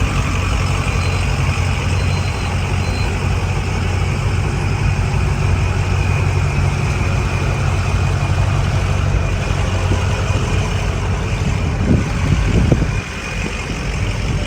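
Car engine idling with a steady low hum. Near the end it briefly rises in pitch, as in a short rev, and then the engine sound falls away sharply.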